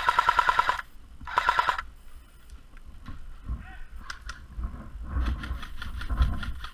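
A&K PKM airsoft electric gun firing full-auto: a burst that ends about a second in, then a short half-second burst, each a fast rattle of shots over the gearbox whine. After that come quieter low thumps and a few faint clicks.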